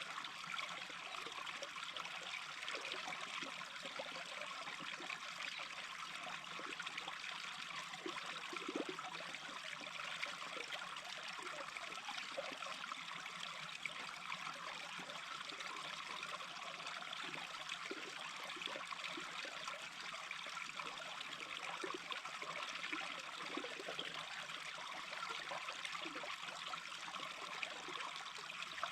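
Small stream babbling steadily, with little gurgles here and there.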